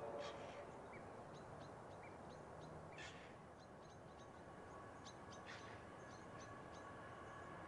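Faint bird calls: scattered short, high chirps and a few brief whistled notes over a quiet hiss. A faint steady tone creeps in during the second half.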